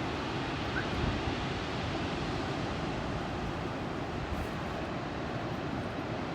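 Steady rushing outdoor noise, with wind buffeting the microphone.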